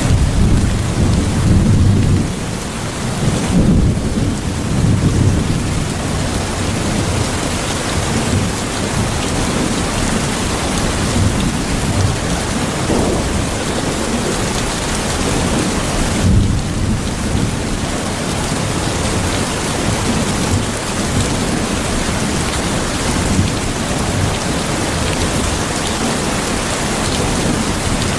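Steady heavy rain with low rolling thunder rumbling underneath, strongest in the first few seconds and again about halfway through.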